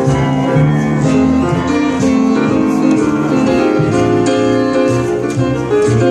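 Instrumental music played back through vintage Western Electric horn cinema loudspeakers, picked up by a phone microphone in the listening room: a steady run of held and changing notes, with no singing.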